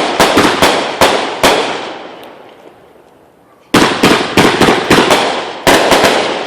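A 25-shot, 500-gram consumer firework cake going off. A quick volley of sharp bangs at the start dies away, then a second rapid volley of about eight bangs comes about four seconds in.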